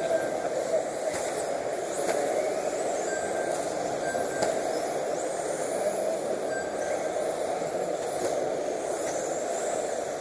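Radio-controlled racing trucks running on the track, their motors whining and sliding up and down in pitch as they speed up and slow down, with a few sharp knocks.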